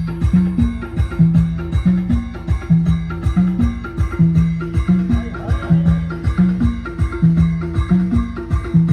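Loud timli band music: a fast, steady drum beat over a repeating low bass-note riff.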